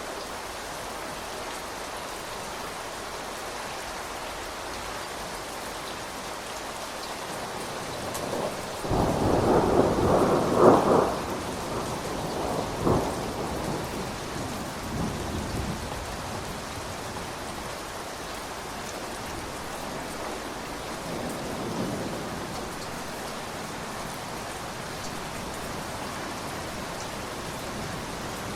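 Steady rain falling, with a roll of thunder that builds about eight seconds in, peaks a couple of seconds later with a second crack soon after, and rumbles away over several seconds; a fainter rumble comes later.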